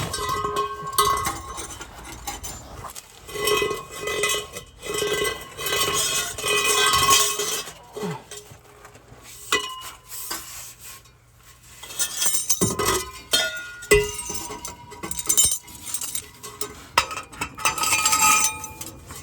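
Steel exhaust pipe pieces and muffler clamps clanking and ringing as they are handled and slid together, with a few sharp metal knocks.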